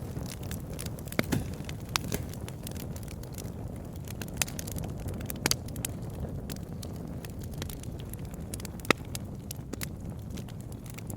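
Campfire burning: a steady low rumble of flames with irregular sharp crackles and pops from the wood, a few of them louder.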